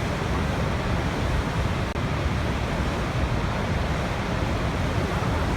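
Waterfall rushing: a steady, even wash of falling water, heaviest in the low end.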